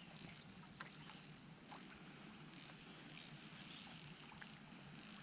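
Faint light rain pattering: scattered small drop ticks over a steady soft hiss.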